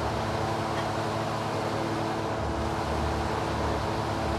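Car engine idling steadily, with a low rumble that swells and fades every second or so.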